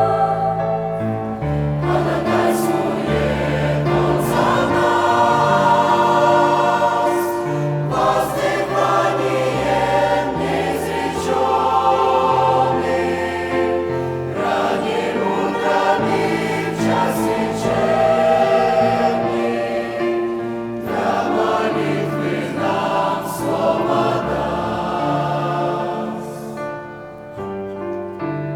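Church choir singing a Christian hymn in several voice parts, in long held phrases with short breaks between them, growing softer near the end.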